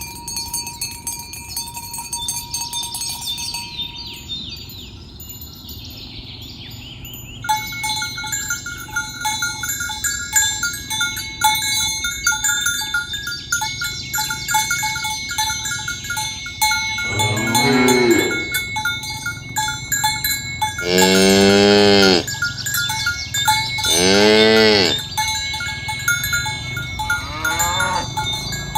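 Herd of cattle with bells clinking steadily as they walk, and three long moos in the second half, the last two the loudest.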